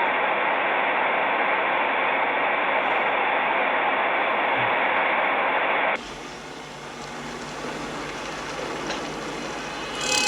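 Steady vehicle driving noise from a dashcam, an even road-and-engine hiss. About six seconds in it cuts abruptly to a quieter recording of traffic noise that builds toward the end.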